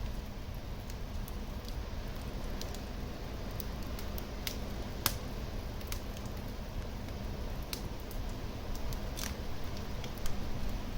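Wood fire burning in a fireplace: a steady low rumble of flame with scattered sharp crackles and pops, the loudest about halfway through.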